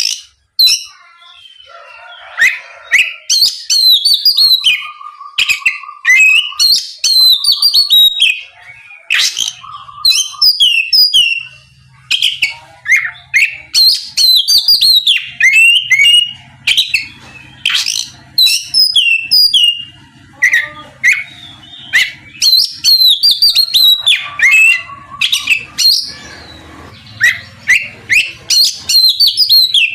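Oriental magpie-robin (kacer) singing at full voice: a long run of loud, varied phrases of whistles and rapid sweeping notes, with short pauses between phrases. A faint low hum runs behind it in the second half.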